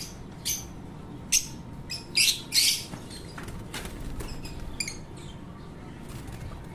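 African lovebirds giving short, shrill chirps, loudest in a quick cluster a second or two in, with scattered calls after.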